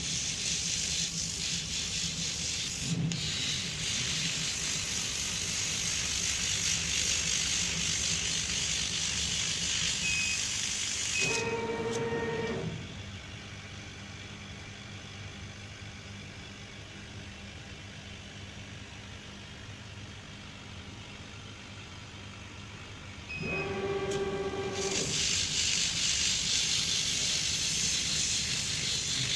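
CNC engraving machine running with a steady hiss. It drops to a quieter run for about ten seconds in the middle, then picks back up. A brief pitched whine sounds at each change.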